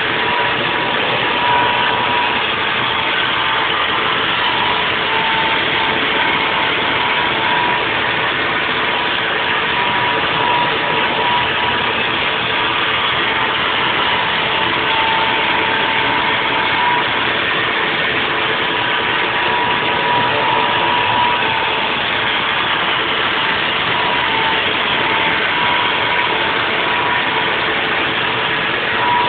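Haas VF4 CNC vertical mill running a 3D milling cut, a steady machine noise with a high whine that wavers in and out.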